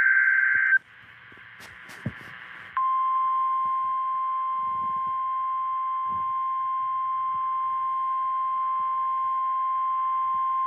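A NOAA Weather Radio alert: the last burst of the SAME digital header, a harsh warbling data screech, cuts off under a second in. After about two seconds of radio hiss, the steady 1050 Hz warning alarm tone starts and holds.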